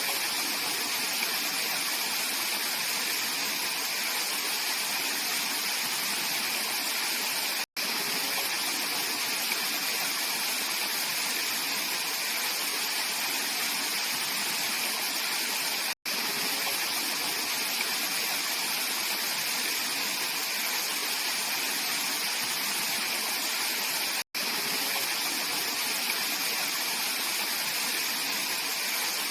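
Clear mountain stream rushing and splashing over rocks in a steady rush of water, cut by three very short dropouts to silence about eight seconds apart.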